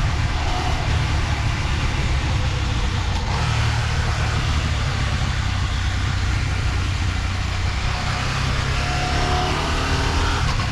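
KTM Norden 901's parallel-twin engine running steadily at road speed, under a wash of wind and tyre noise, its pitch rising slightly near the end.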